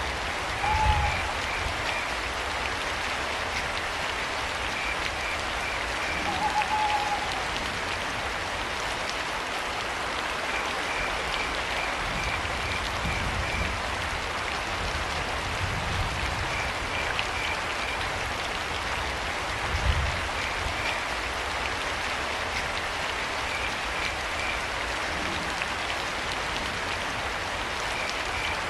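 Steady rain, with crickets chirping in short trains throughout. Two short owl hoots come about a second in and again about six seconds in, and a few low thuds are heard, the clearest about twenty seconds in.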